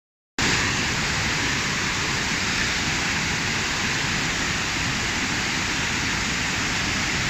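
Steady, even rush of falling water that cuts in a moment after the start.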